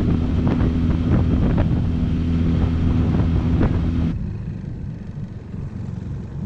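Jon boat's motor running steadily, with a string of knocks and taps over it. About four seconds in the sound changes abruptly to a quieter, lower engine rumble.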